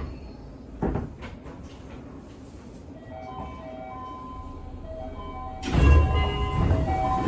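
Seibu 6000 series train at a station stop: a sharp thump about a second in, then a melody of chime-like electronic tones from about three seconds, with a sudden loud rush of noise near the six-second mark.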